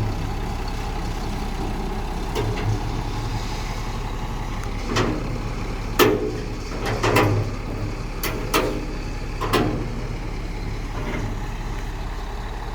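Heavy vehicle engine idling steadily, with a run of sharp metallic knocks partway through.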